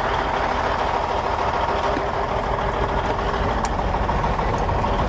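Heavy truck engine idling steadily, a low even rumble with a faint steady hum above it.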